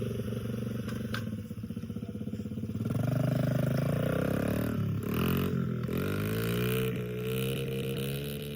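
Small dirt bike engine running, its pitch rising about three seconds in, then dipping sharply twice around five seconds in as the throttle is eased off and opened again.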